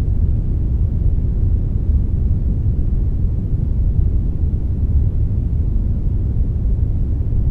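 Steady synthetic brown noise, a deep, even rumble with little hiss, unchanging throughout.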